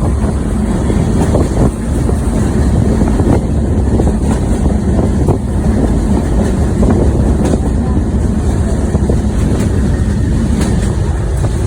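Train running along the track: a loud, steady rumble with faint scattered clicks of wheels on the rails.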